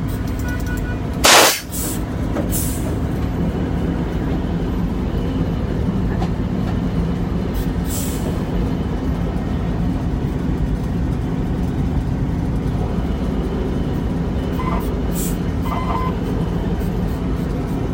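Diesel engine of a log truck loaded with cedar running steadily. A short, loud hiss comes about a second and a half in, with fainter hisses later.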